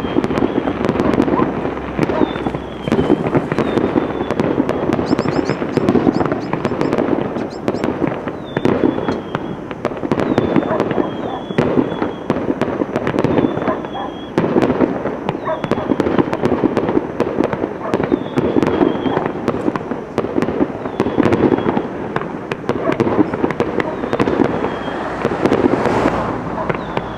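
Fireworks display: a dense, continuous barrage of crackling and banging firework bursts. Short high whistles recur every second or two.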